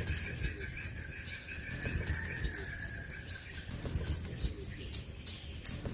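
Crimson sunbird calling: rapid, high, thin chips, several a second. Over them a steady high whine fades out a little past halfway.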